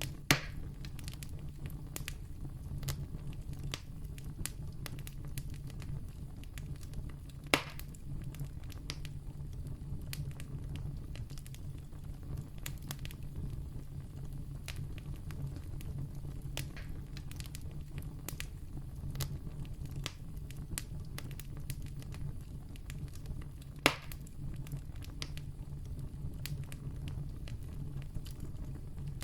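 Wood campfire burning with steady crackling over a low rumble, and three louder sharp pops, about a third of a second in, about seven and a half seconds in, and near twenty-four seconds.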